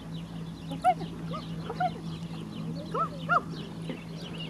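Birds calling around a farmyard: about five short calls that rise and fall in pitch, the loudest pair about three seconds in, over continuous high chirping of small birds and a steady low hum.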